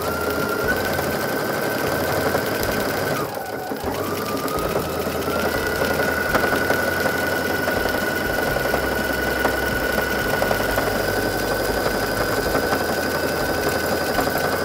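Brother NQ470L computerised sewing machine stitching a combined decorative pattern into denim. Its motor whine dips briefly about three and a half seconds in, then settles steady.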